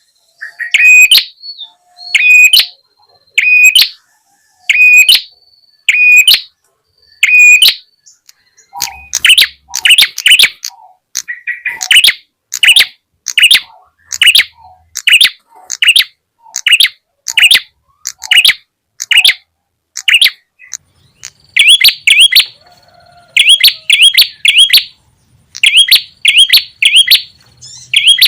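Lure-call recording of a prenjak (the small bird sold as prenjak tamu or prenjak kepala merah), giving loud, sharp, repeated chirps. The chirps start spaced about a second apart, speed up to a rapid run about eight seconds in, and come in quick clusters near the end.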